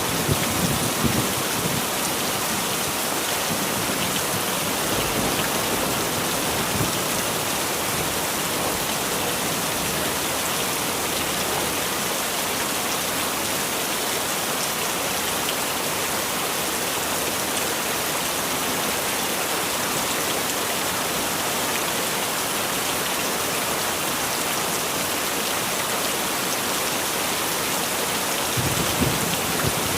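Heavy rain falling steadily. There is a low rumble of thunder in the first second or so and again near the end.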